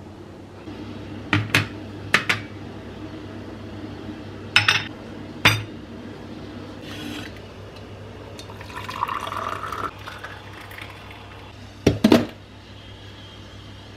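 Dishes and glassware clinking in a kitchen, with a few sharp knocks in pairs. In the middle comes a short stretch of liquid being poured.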